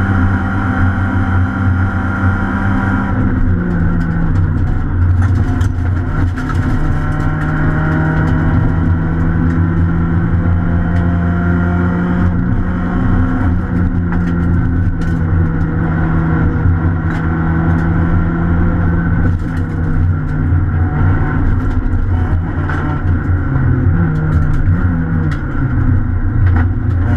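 Citroën C2 R2 rally car's four-cylinder engine heard from inside the cabin, running hard at high revs through a long, steady pull. The pitch steps down once a few seconds in and several times near the end as the driver changes gear and slows.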